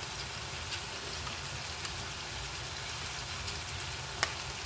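Soy chunks, onion and peppers sizzling steadily as they stir-fry in a pan, with a few light clicks of the spoon and wooden spatula against the pan and one sharper tap near the end.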